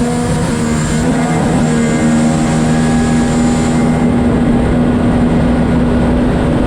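Racing jet ski engines running at full throttle on a drag run, the engine note held at a steady high pitch.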